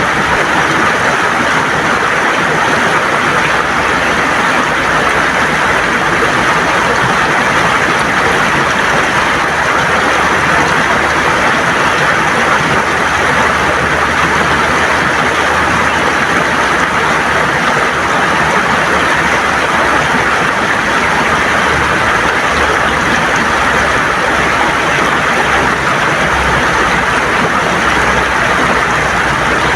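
River water rushing and gurgling over stones, a steady, loud rush of flowing water.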